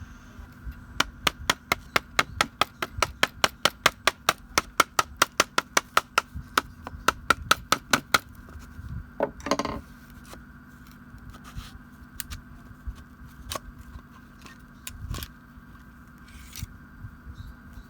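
Hand-tool work on small metal parts: a steady run of sharp clicks, about four a second, then a short scrape about nine seconds in, followed by a few scattered clicks.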